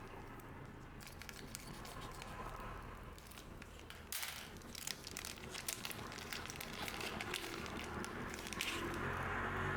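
Trading card booster pack wrappers crinkling and tearing as the packs are handled and opened by hand. It is a dense crackle with a louder, sharper tear about four seconds in.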